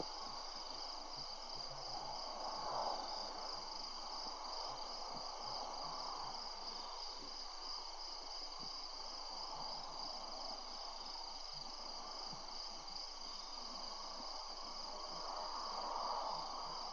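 Outdoor night ambience: a steady high-pitched insect trill, over a rushing noise that swells about three seconds in and again near the end.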